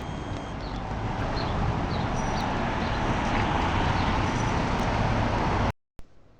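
Wind rushing over the microphone with road noise while riding a bicycle, swelling louder over several seconds, then cutting off suddenly near the end.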